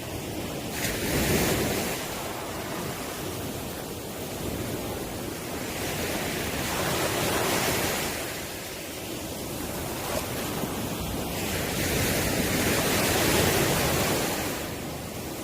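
Ocean waves breaking and washing on the shore, the surf swelling and easing about every five or six seconds.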